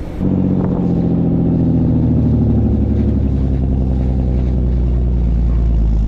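A vehicle engine running steadily and loud, close to the microphone, with a dense low drone; it comes in suddenly about a quarter second in.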